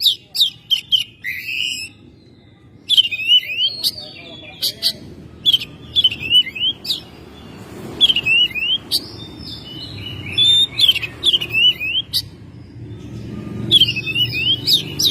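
Oriental magpie-robin singing in short bouts of rapid, sweeping high whistles, about six bouts with brief pauses between. A low background rumble swells near the end.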